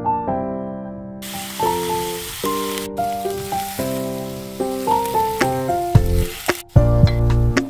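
Diced tomatoes and green chillies sizzling in a frying pan, starting about a second in and cutting off shortly before the end, under piano background music.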